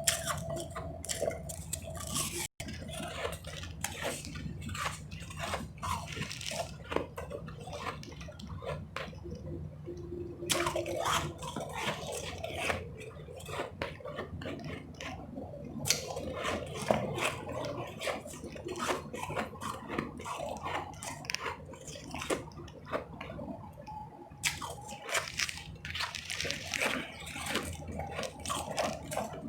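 Close-up chewing of powdery ice chips, with many irregular crisp crunches one after another.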